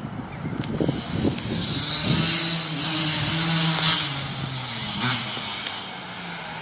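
Dirt bike engine running, growing louder about two seconds in and holding a steady pitch, then easing off lower and quieter in the last couple of seconds. A few short knocks come in the first second or so.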